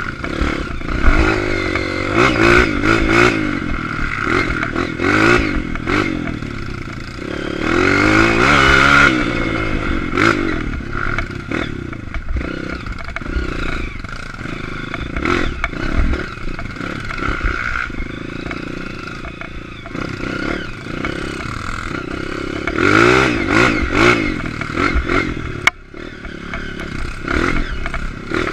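Honda CRF230 trail bike's single-cylinder four-stroke engine being ridden on a dirt trail, revving up and down again and again with the throttle, loudest twice (about eight and twenty-three seconds in), with clattering knocks from the bike over rough ground.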